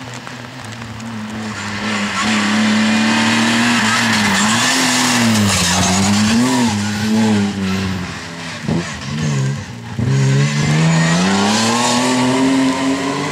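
BMW M3 rally car's engine driven hard on a stage. The revs build over the first couple of seconds, swing up and down, then drop and break up for a moment about two-thirds of the way in before climbing steadily again near the end.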